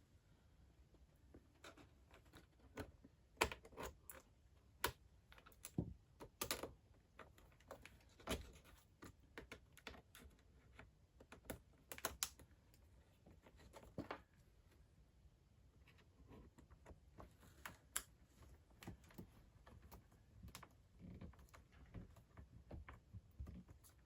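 Faint, irregular small clicks and taps of a screwdriver and fingers working tiny screws back into the metal frame of an iMac's screen assembly.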